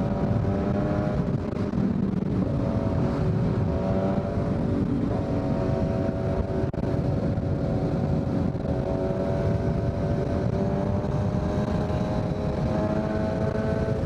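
2023 Kawasaki Z900's inline-four engine through a Leo Vince full exhaust, cruising at a near-steady pitch that climbs slowly over the last few seconds.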